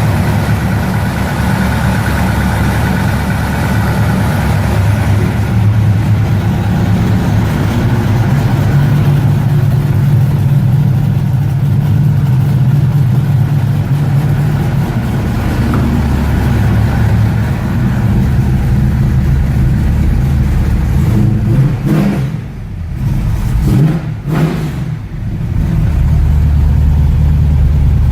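1969 Ford Mustang's engine, converted to FiTech throttle-body fuel injection, running steadily just after a cold start. It goes briefly quieter twice a few seconds before the end.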